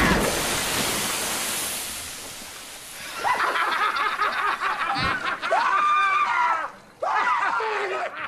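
Fireworks fizzing and hissing, dying away over the first couple of seconds. Then high-pitched snickering laughter in short bursts, with a single knock about halfway through.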